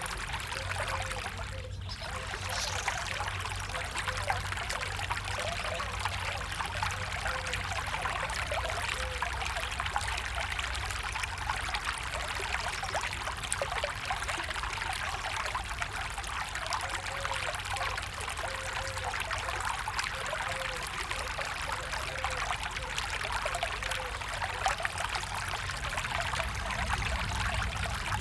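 Stream water running and splashing steadily, an even rush dotted with small splashes and gurgles, with a brief dropout just before two seconds in.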